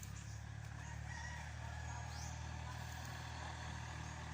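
Kubota L3608 tractor's diesel engine idling steadily, with faint bird calls above it.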